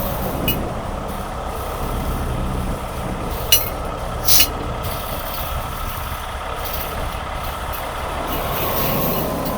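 Heavy truck diesel engine idling steadily, with two short sharp clanks or hisses about three and a half and four and a half seconds in.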